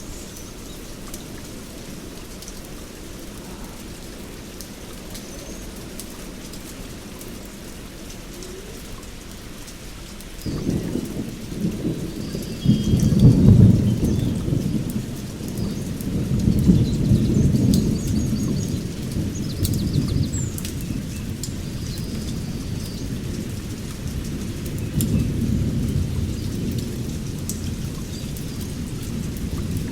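Steady rain with thunder: a low rumble rolls in suddenly about ten seconds in, swells loudest a few seconds later and comes back in further rolls. Faint bird chirps sound now and then over the rain.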